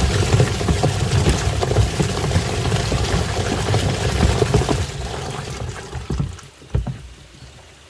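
Washing machine churning water: a low motor rumble with water sloshing. It dies away over the last few seconds to a much quieter stretch.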